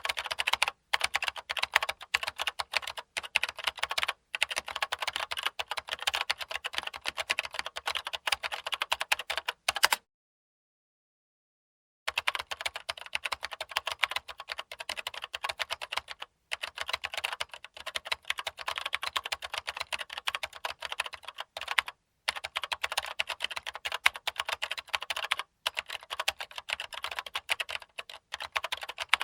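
Typewriter keys struck in a fast, continuous run of sharp clicks, broken by a few short pauses and by about two seconds of total silence roughly ten seconds in.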